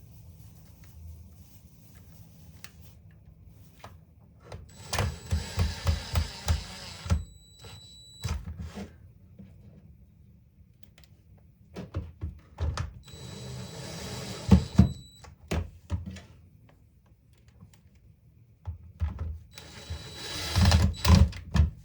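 Cordless DeWalt drill/driver running screws into a reciprocating saw's housing in three short runs of about two seconds each, with a thin motor whine and rapid knocking as each screw turns in.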